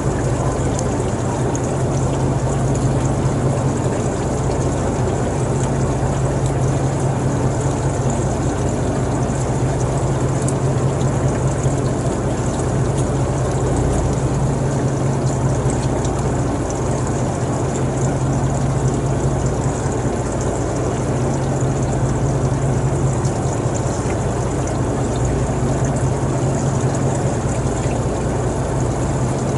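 An engine running steadily at a constant speed: an even, unchanging low drone with a noisy hiss over it.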